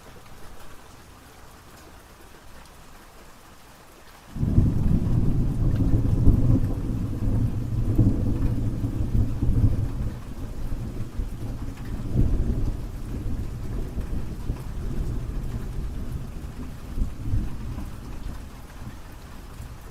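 Steady rain, with a low rumble of thunder breaking in suddenly about four seconds in and rolling on, slowly fading.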